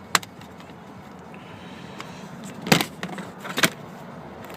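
Sharp plastic clicks and knocks from the jack-compartment access door in an SUV's rear cargo area being handled and unlatched: a light click just at the start, then two louder knocks about a second apart near the middle.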